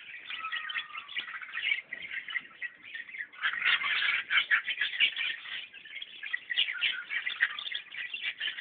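Many small birds chirping together in a dense, continuous chatter, growing louder about three and a half seconds in.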